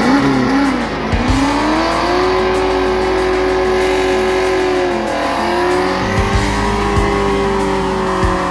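Car engine revving: the pitch climbs, holds high for a few seconds, drops about five seconds in, then climbs and holds again, with a few sharp pops. Music plays underneath.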